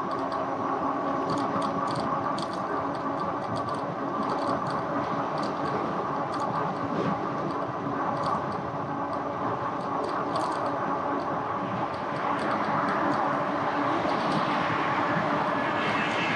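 Riding noise from an e-bike on the road: steady wind and tyre rumble with a constant motor hum and scattered light rattling clicks. It grows louder about twelve seconds in.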